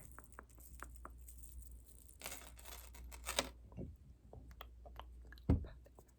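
Close-miked ASMR trigger sounds: a run of small sharp clicks and taps, a rustling swish about two seconds in, and a soft thump near the end.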